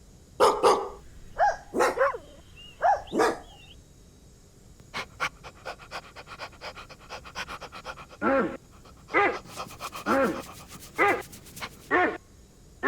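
A dog barking: several sharp barks in the first three seconds, then a run of quick short sounds at about four a second, then steady barks about once a second from about eight seconds in.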